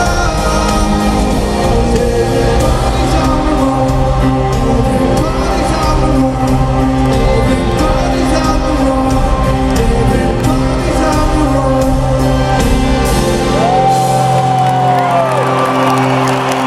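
A live rock band plays the final bars of a song with singing, drums and bass, recorded loud from the audience. About three-quarters of the way through the band stops, leaving one held note that bends up and falls away, and crowd cheering rises near the end.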